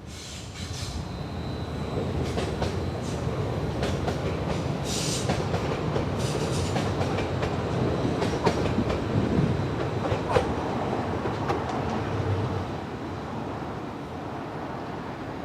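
A train running past on the track, getting louder over the first couple of seconds, its wheels clicking over the rail joints with a faint high wheel squeal early on.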